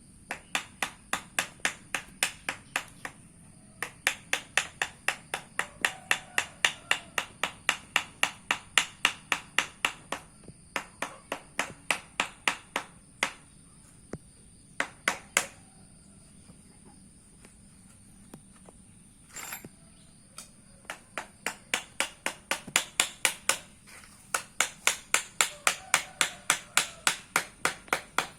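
Rapid, even tapping on the landing-gear mold to work the part loose, about four sharp taps a second in runs of several seconds with short pauses between runs.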